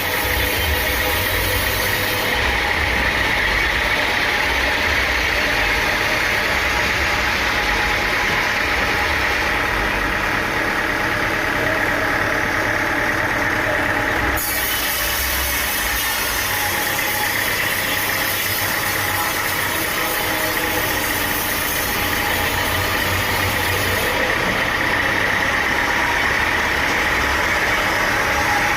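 Sawmill engine running steadily, with an even drone and hiss and no cutting strikes. The high hiss shifts abruptly about 2 and 14 seconds in.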